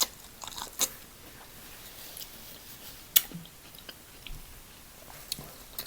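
A person chewing food close to the microphone: a few scattered wet mouth clicks and smacks, one sharper than the rest about three seconds in.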